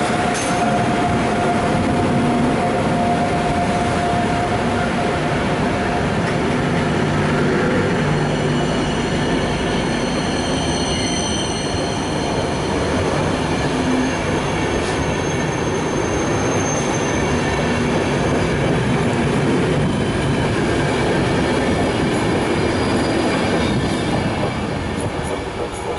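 A train running past close by, its wheels on the rails with a high squeal midway through; the noise eases off near the end.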